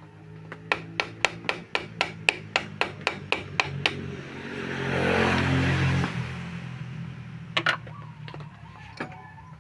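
A run of sharp, evenly spaced knocks, about four a second, like a hammer striking. A rising and falling hiss follows over a steady low hum, then a couple of single knocks.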